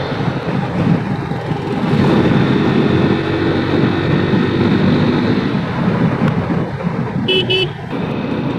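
Wind buffeting the helmet microphone over steady motorcycle and road noise while riding in traffic, with a vehicle horn tooting twice in quick succession near the end.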